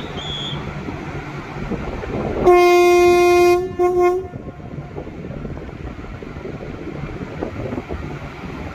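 Passenger train locomotive sounding its horn: one long blast and then a short one, a single steady tone, over the low rumble of the train.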